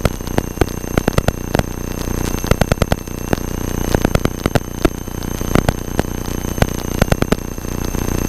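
Electrical interference on the cockpit audio: irregular clusters of sharp clicks and buzz, with thin steady high-pitched whines, over a steady cabin noise.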